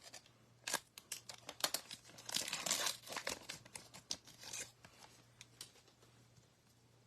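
Wrapper of a Gypsy Queen baseball card pack crinkling and tearing as it is struggled open, a run of irregular crackles and rips that dies away after about five seconds.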